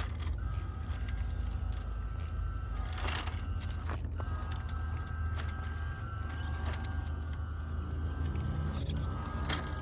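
Small 370 brushed electric motor and single-speed metal gearbox of a 1:16 WPL C24-1 RC crawler whining steadily under throttle, breaking off and starting again a few times, with a low hum underneath. Occasional sharp clicks and knocks are heard, about a second before the three-second mark, near four seconds and near the end.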